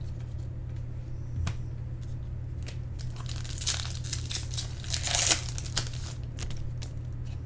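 A foil trading-card pack being torn open and crinkled, with scattered crackles building to a couple of louder bursts around the middle, over a steady low hum.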